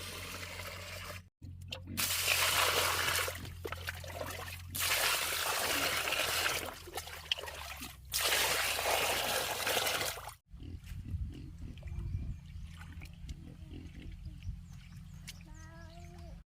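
Running water in four stretches of a few seconds each, with sudden breaks between them and a steady low hum underneath.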